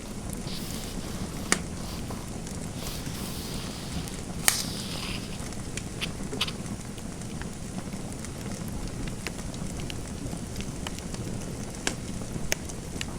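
Fireplace fire crackling: a steady low rumble with scattered sharp pops, the loudest about four and a half seconds in.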